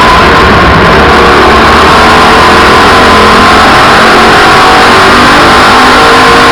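Race car engines running hard on a short oval track, a steady loud drone so hot that the recording is overloaded and distorted.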